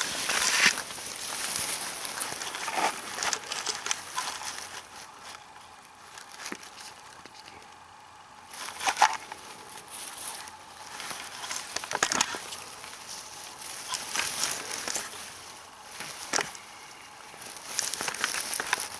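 Grass and plant stems rustling and crackling as someone moves through a meadow and picks berries by hand. The rustles come irregularly, with a few sharp snaps, over a faint steady high hiss.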